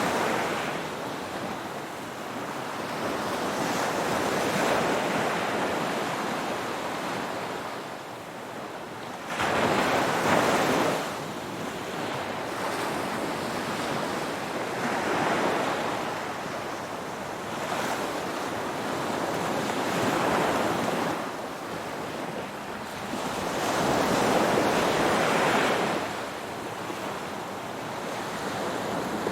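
Ocean waves breaking as surf, each wave swelling and easing away every five seconds or so. The strongest surges come about ten seconds in and again near the end.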